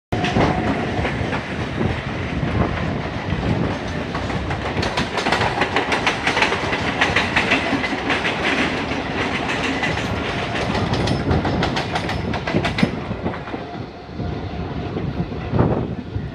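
Passenger train running along the track, heard from the open window of a coach: a steady rumble of wheels on rail, with a stretch of fast clattering over rail joints in the middle that eases off near the end.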